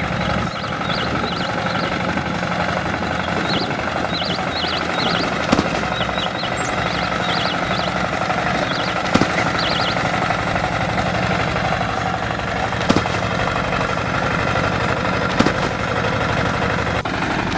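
Tractor engine running steadily, with birds chirping over it in the first half and a few sharp clicks.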